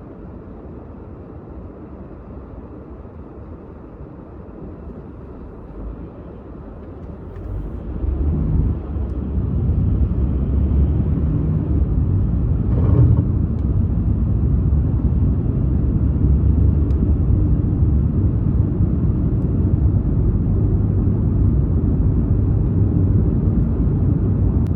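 A car driving, a steady low rumble of tyre and engine noise that grows much louder about eight seconds in, with a brief knock a little later.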